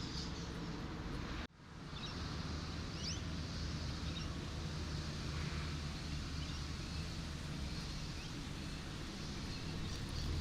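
Steady outdoor ambience of sea surf and road traffic, with a low vehicle engine hum underneath. The sound cuts out for an instant about one and a half seconds in, and a few faint high chirps come around three seconds in.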